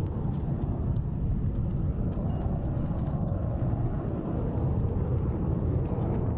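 JF-17 Thunder fighter jet's engine noise, a steady low rumble as the jet flies its display manoeuvre.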